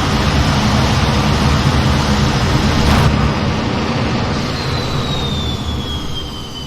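F-15 jet engine noise: a loud, deep rumble that fades. From about halfway through, a high whine glides steadily down in pitch, as when the engines are throttled back and spool down.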